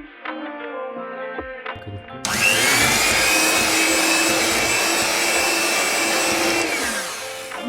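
Soft guitar music, then about two seconds in an electric kitchen mixer's motor switches on and runs with a steady whine for about four and a half seconds before stopping.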